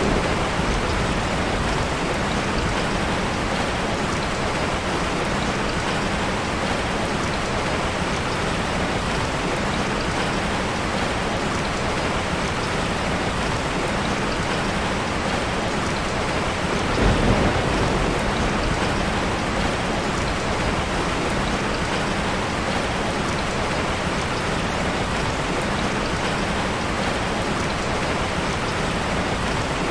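Steady heavy rain falling and pattering on surfaces, with one low thunder rumble swelling up a little past halfway.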